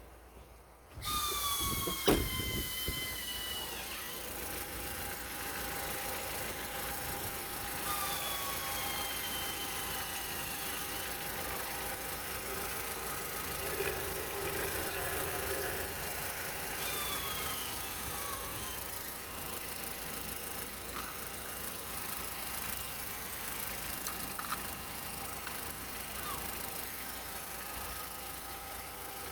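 Opel Astra H 1.4 Z14XEP four-cylinder petrol engine starting about a second in and then running steadily, with a whine that falls in pitch several times as the revs drop back.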